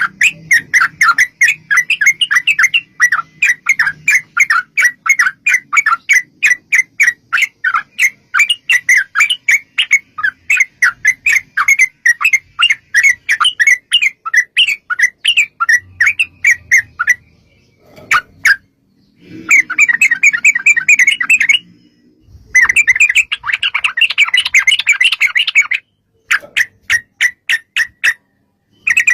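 Yellow-vented bulbul (trucukan) calling in a long, fast run of chattering notes, then after a pause in several shorter dense bursts with silent gaps between them.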